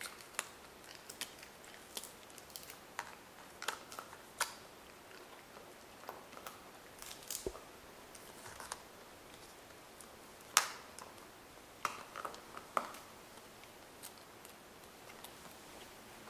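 Wolves chewing and crunching on food, with irregular sharp cracks and snaps; the loudest crack comes about ten and a half seconds in.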